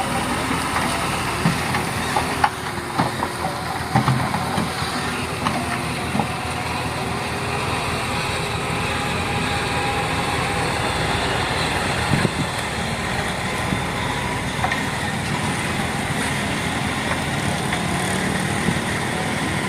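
Dump truck engine running steadily, with a few knocks in the first few seconds.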